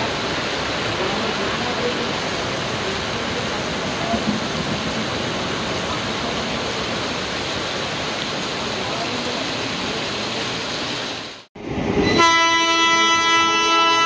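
Heavy rain hissing steadily while an express train rushes through the station. After a sudden cut about eleven seconds in, an approaching Indian Railways locomotive starts a long, steady horn blast, the loudest sound.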